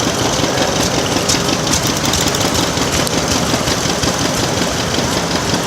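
Old tractor engine running steadily, heard from the driver's seat while the tractor is driven.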